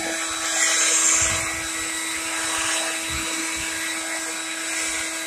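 Leaf blower running steadily with a constant whine over a rushing hiss; the hiss swells briefly about a second in.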